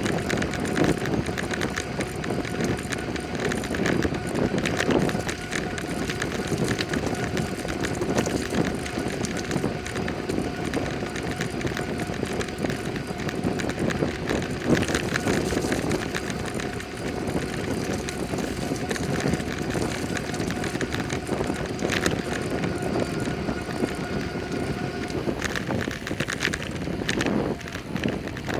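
Bicycle being ridden on the road: tyre and wind noise with small rattles from the bike, under a faint steady hum that fades near the end.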